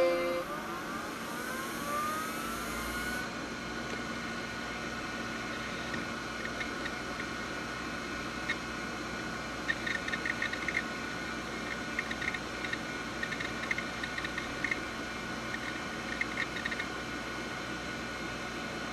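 Desktop computer tower running after power-on: a whine rises in pitch over the first few seconds as it spins up, then settles into a steady whirring hum. Short bursts of soft ticking come and go through the middle stretch.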